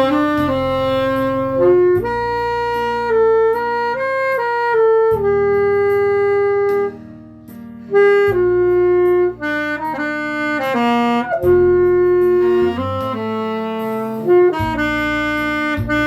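Saxophone playing a slow melody of long held notes over a backing track with a bass line. The accompaniment thins out briefly about seven seconds in before the melody resumes.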